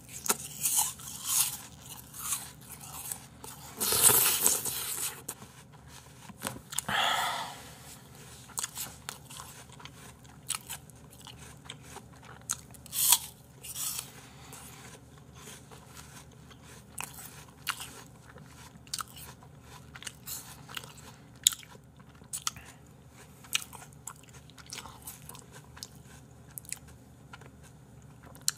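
Crisp raw apple slices being bitten and chewed close to a microphone: wet crunching and many short chewing clicks, loudest about four seconds in.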